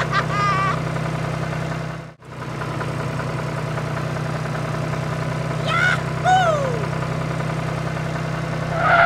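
Steady tractor-engine idling drone for a miniature toy tractor. It drops out briefly about two seconds in, then resumes. Short, high, squeaky cartoon-voice chirps come just at the start and again around six seconds in, the second ending in a falling squeal.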